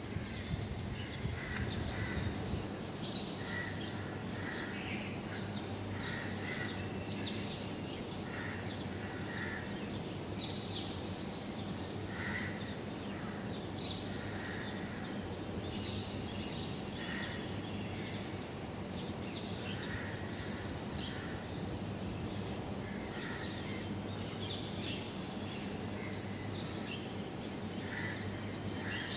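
Birds calling again and again over steady background noise with a low hum.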